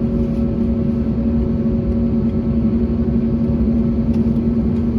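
Steady cabin noise of an Airbus A321neo with Pratt & Whitney PW1100G geared turbofans: a low rumble with a steady engine hum of several tones, heard from inside the cabin.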